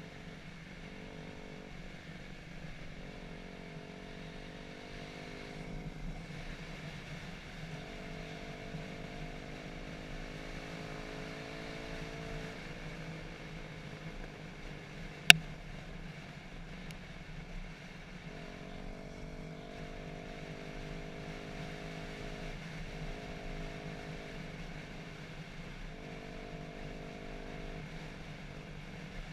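Dirt bike engine running as it is ridden along a trail, its note coming and going in stretches of a few seconds over a steady low hum. A single sharp knock about fifteen seconds in.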